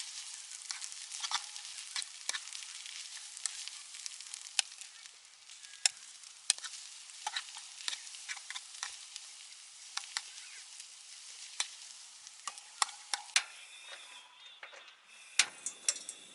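Food sizzling in a hot pan while a utensil stirs it, with frequent sharp clicks of metal against the pan. The sizzle slowly fades and drops away near the end.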